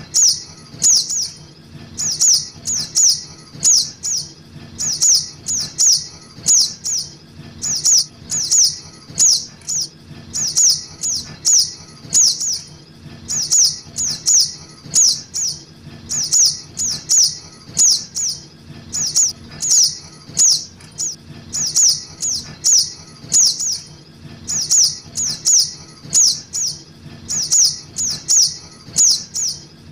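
Juvenile little spiderhunter (sogok ontong) begging calls played as a bird lure: short, high, downslurred chirps in tight clusters of three or four, repeating about every second and a half.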